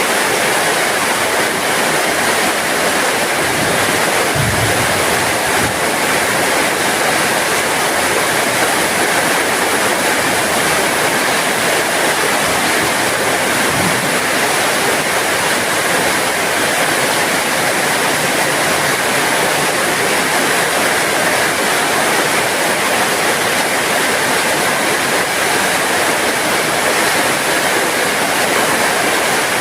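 Steady heavy rain falling, a dense, even hiss of drops. Two faint low thumps come about 4 seconds and 14 seconds in.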